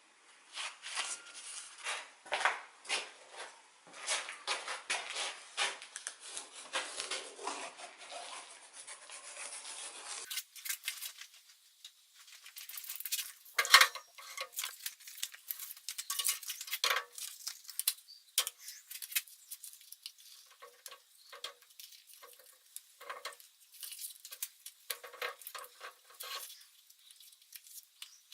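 Metal parts and hand tools clinking, clattering and scraping on a workbench. A long run of irregular small clicks is broken about ten seconds in, and one loud metal clank comes near the middle.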